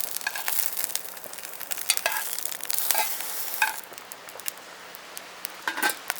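Food sizzling in a frying pan while a utensil stirs it, with scraping and clinks against the pan. The sizzle dies down about two-thirds of the way through.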